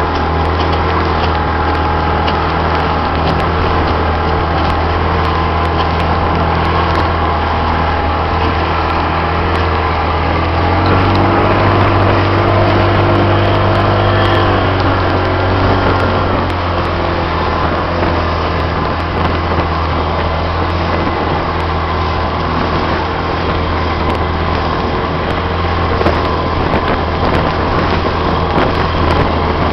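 Johnson 25 HP outboard motor running steadily, getting louder and a little higher in pitch for a few seconds near the middle before settling back.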